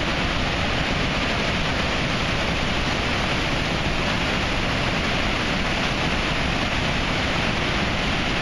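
Flood-swollen creek pouring over a low dam waterfall: a loud, steady rush of water with no let-up.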